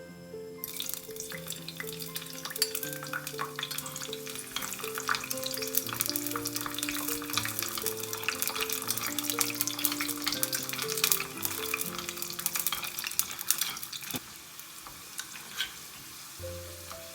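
Oil sizzling and crackling in an earthenware pot (ttukbaegi) as garlic shrimp cook, starting abruptly about a second in and dying down to occasional pops near the end.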